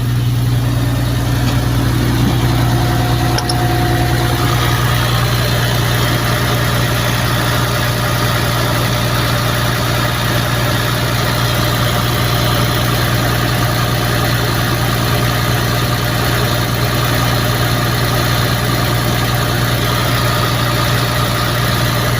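Heavy truck diesel engine idling steadily with an even low hum.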